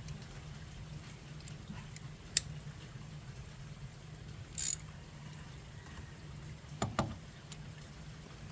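Scattered metal clicks and clinks of a socket wrench and sockets being fitted: a sharp click about two seconds in, a short scraping rattle a little past the middle, and a double knock about seven seconds in, over a steady low hum.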